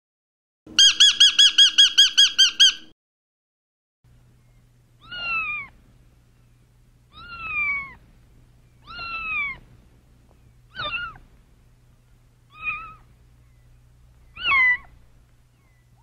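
A parrot gives a loud, fast run of about a dozen identical sharp calls lasting about two seconds. Then a young kitten meows six times, each meow falling in pitch, about two seconds apart, over a faint low hum.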